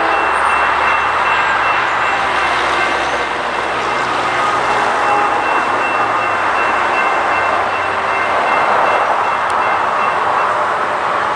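Norfolk Southern freight train with GE Dash 9-44CW diesel locomotives running near the crossing: a loud, steady rumble of engines and rolling wheels, with a thin steady high tone that stops near the end.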